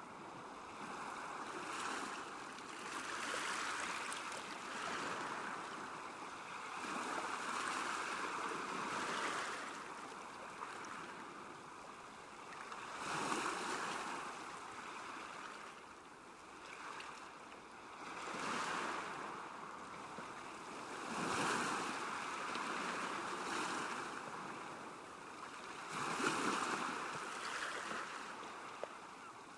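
Small waves lapping at a lakeshore, a steady wash of water that swells and splashes every few seconds.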